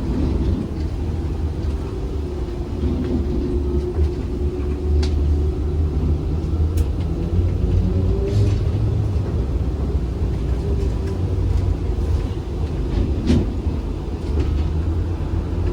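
ZiU-682G trolleybus under way: a steady low rumble with a faint motor whine that falls in pitch as it slows, then rises again near the end as it picks up speed. A few short clicks are heard.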